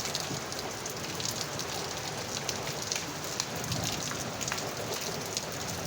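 Steady rain falling and pattering on a hard surface, with many small drop impacts.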